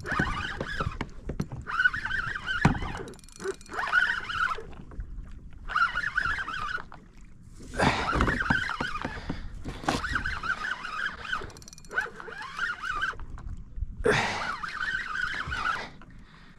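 Fishing reel being wound in from a deep drop, its gears whining in about nine separate spells of winding with short pauses between.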